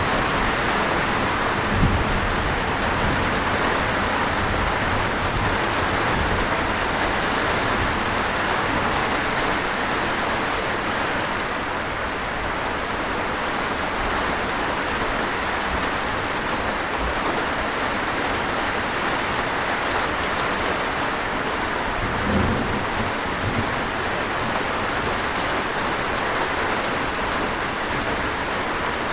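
Steady rain falling in a thunderstorm, an even hiss of water on surfaces. Two brief low rumbles of thunder come through, about two seconds in and again about two-thirds of the way through.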